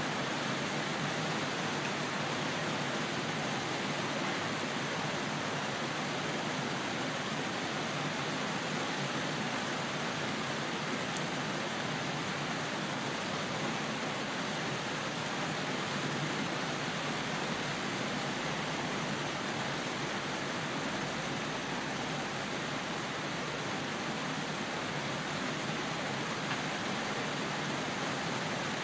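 Steady rain falling as an even, unbroken hiss, with no single drops, tones or thunder standing out.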